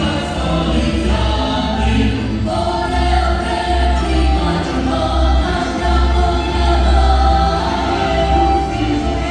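A choir singing a Ukrainian song, with sustained held notes over a steady low instrumental accompaniment.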